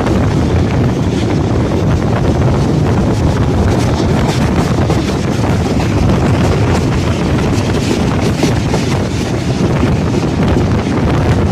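Steady rushing wind buffeting the microphone at the open door of a moving passenger train, with the train's running noise beneath it.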